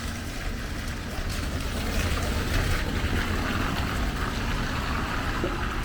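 Steady hiss of rain falling on a wet street, a little louder from about two seconds in, over a low rumble.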